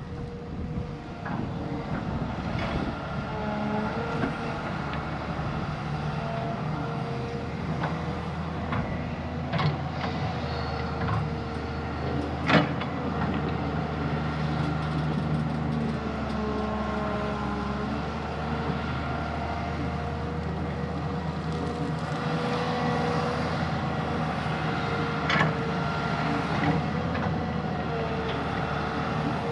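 Heavy diesel earthmoving machinery running steadily at work, with whining tones that shift in pitch now and then. A few sharp knocks come through, the loudest about twelve seconds in.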